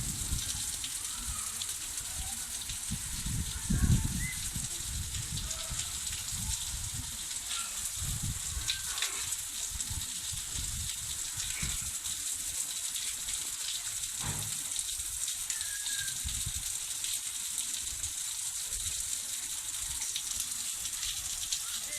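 Steady hiss of heavy rain and rushing water, with irregular low rumbling underneath and a louder bump about four seconds in.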